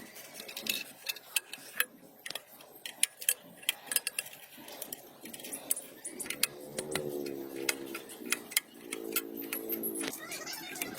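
Metal tools and parts clicking and clinking irregularly, several sharp ticks a second, with two short steady hums partway through and near the end.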